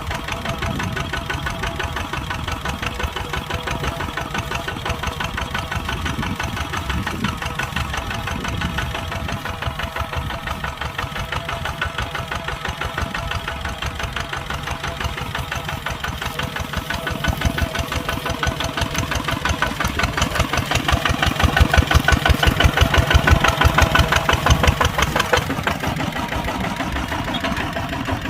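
Kubota tractor's diesel engine running with a fast, even clatter. It grows louder from about two-thirds of the way through and is loudest for a few seconds, as it works harder under load, then drops back.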